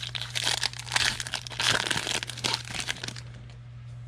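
A trading-card pack wrapper being torn open and crinkled, crackling for about three seconds before it goes quiet.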